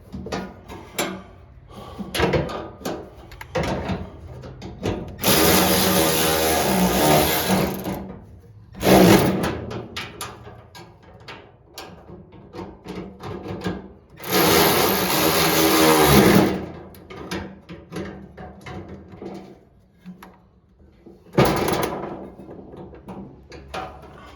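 A handheld power tool running in several bursts of one to three seconds, its pitch shifting as it runs, with short knocks and clatter of parts between the bursts.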